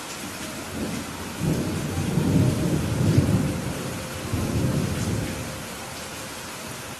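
Steady rain with a rolling rumble of thunder that swells about a second and a half in and dies away by about five and a half seconds.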